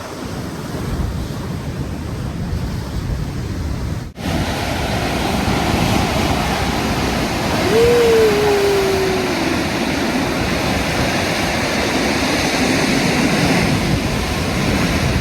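Ocean surf surging over a rocky shore as the tide comes in, a steady rush of water. It cuts out abruptly about four seconds in and comes back louder, with a short falling cry about eight seconds in.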